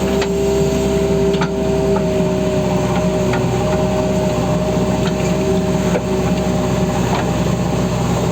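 JCB backhoe loader's diesel engine running steadily, with a steady whine over it and scattered clanks and knocks from the machine at work.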